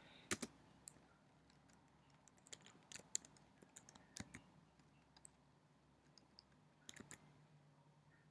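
Faint, scattered clicks of computer keyboard keys pressed one at a time, in small clusters about three seconds in and again near seven seconds.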